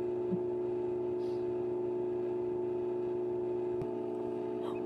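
Steady electrical hum made of several held tones, with a faint short blip about a third of a second in.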